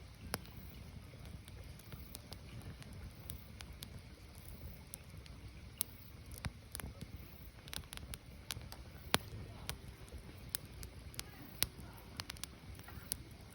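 Firewood burning in a wood fire: irregular sharp crackles and pops over a low, steady rumble, with a few louder pops in the second half.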